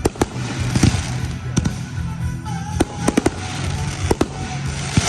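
Fireworks finale: about ten sharp booms of aerial shells bursting at irregular intervals, over continuous crackling.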